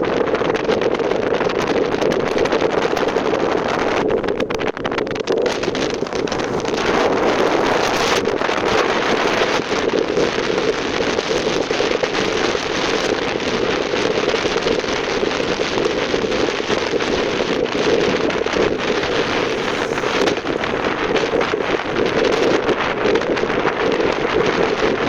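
Wind rushing over the microphone of a motorcycle riding at speed, with a steady drone from the moving bike underneath.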